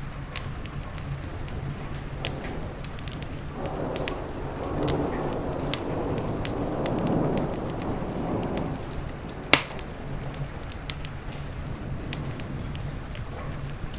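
Wood fire crackling, with frequent small pops and one loud pop about nine and a half seconds in, over steady rain and a low rumble. A louder swell of rain noise builds and fades in the middle.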